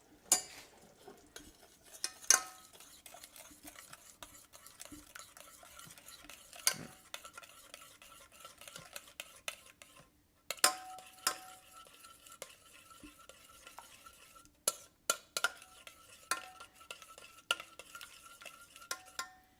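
A utensil stirring a sauce in a bowl or pot, scraping and clicking against the sides, with a few sharper knocks scattered through.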